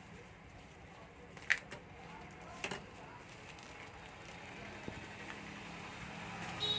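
A few sharp clicks, three within the first three seconds, over a steady low hum and background noise.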